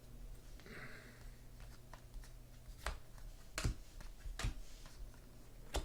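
Trading cards being handled: a soft rustle about a second in, then four sharp clicks or snaps spread over the second half, over a faint low hum.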